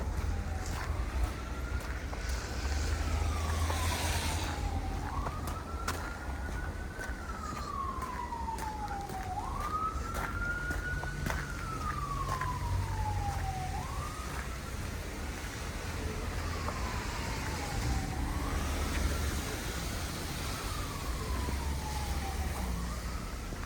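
Emergency vehicle siren wailing: one tone that rises quickly and then falls slowly, repeating about every four and a half seconds, over a low rumble.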